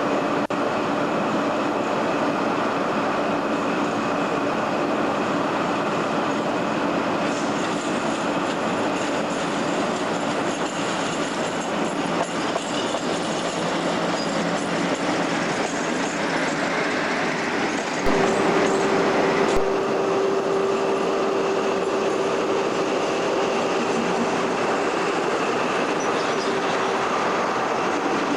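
Diesel-hauled freight train running past, its wagons rolling steadily on the rails. About eighteen seconds in, a steady whine starts and carries on.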